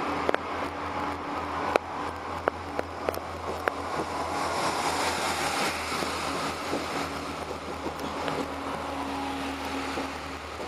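Irish Rail 29000 class diesel multiple unit pulling out past the platform: its underfloor diesel engines running with a steady low hum, and a rush of wheel and rail noise that swells about four seconds in as the carriages go by. A few sharp clicks in the first few seconds.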